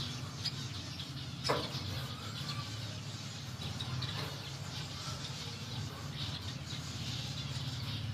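Steady low hum of a running air-cooler fan, with faint chirps of small birds and a single sharp click about a second and a half in.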